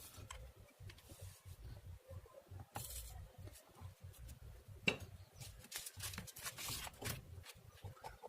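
Faint handling noises of work on amplifier wiring: scattered small clicks and scrapes, with one sharper click about five seconds in.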